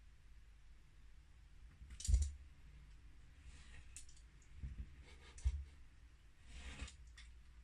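Knife cutting paper along a metal ruler: a few short scraping strokes, with light knocks on the work surface about two seconds in and twice around five seconds in.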